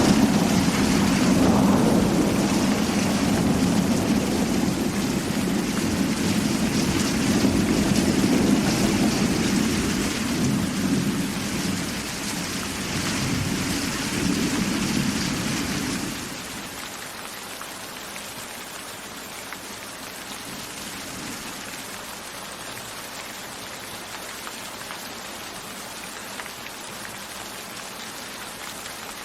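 Heavy rain with a long, loud rumble of thunder; about 16 seconds in the rumble cuts off sharply, leaving quieter, steady rainfall.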